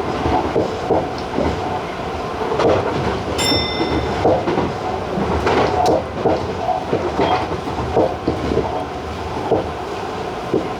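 Tobu 50090-series electric train running at speed, its wheels clattering irregularly over rail joints and points above a steady running rumble. A brief high-pitched tone sounds about three and a half seconds in.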